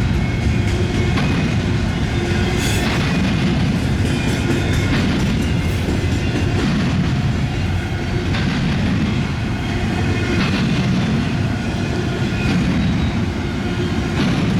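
Freight cars of a long CSX intermodal train rolling steadily past in a loud, continuous rumble. Wheel clacks come about every two seconds as the cars go by.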